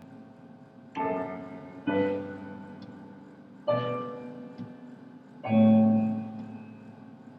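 Piano chords struck slowly one at a time, four in all, each left to ring and fade before the next: the instrumental intro of a song.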